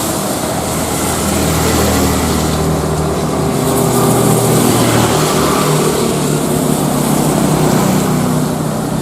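Airliner jet engines running steadily: a loud rushing noise over a low engine hum that shifts a little in pitch.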